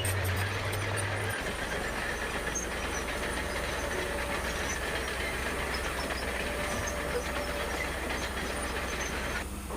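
Bulldozer at work: its diesel engine runs steadily under the clatter of its steel tracks. The engine's low hum drops in pitch about a second and a half in.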